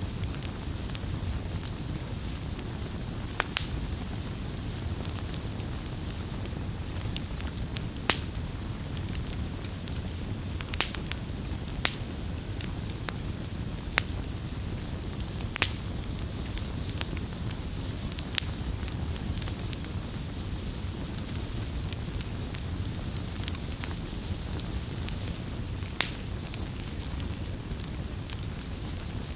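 Wood campfire crackling: a steady low rumble and hiss with sharp pops and snaps at irregular intervals.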